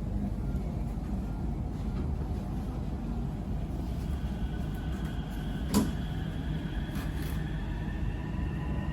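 Interior of an MRT Purple Line electric train running: a steady low rumble, with a thin motor whine coming in about halfway and slowly rising in pitch as the train picks up speed. A sharp click about two-thirds of the way in.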